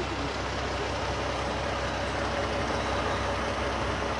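Steady low rumble of idling heavy vehicle engines, with no distinct events.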